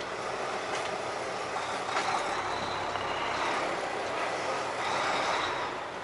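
Semi-truck diesel engine running steadily, with a couple of short sharp sounds about one and two seconds in.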